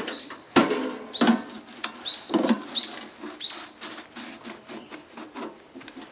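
Metal spatula scraping and knocking against an iron pan while stir-frying fried rice: irregular clanks, some ringing briefly, mixed with short squeaky scrapes.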